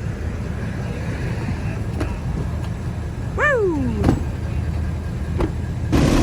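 Steady low rumble of a running vehicle engine, with a pitched tone that slides downward about three and a half seconds in and a few sharp clicks; near the end a louder steady hiss comes in.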